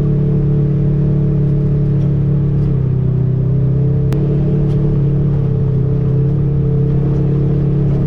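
Off-road vehicle engine running at a steady speed with a constant drone. Its pitch drops slightly about a third of the way in and shifts again about halfway.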